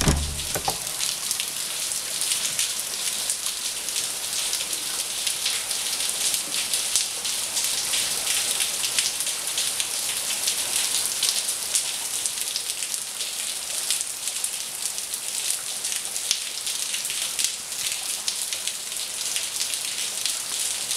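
Heavy summer-storm rain falling steadily, a dense hiss made of countless small drop ticks. A brief low thump comes right at the start.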